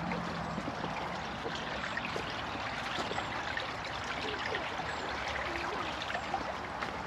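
Steady hiss of running water trickling, with scattered small ticks over it.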